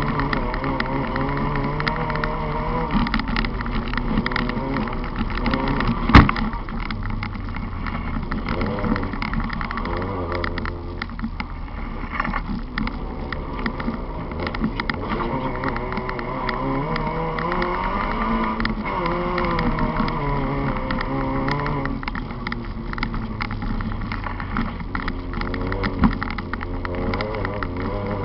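Volkswagen Polo race car's engine heard from inside the cabin, revving up and falling back again and again as it is driven hard on dirt. A single sharp knock about six seconds in is the loudest sound.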